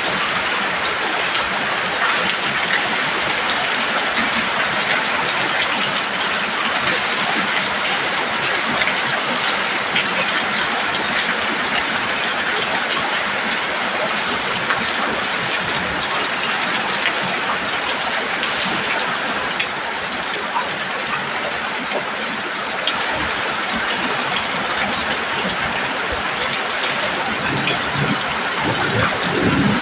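Heavy rain falling steadily on a roof, a dense even hiss dotted with small drop patters. A low rumble rises briefly near the end.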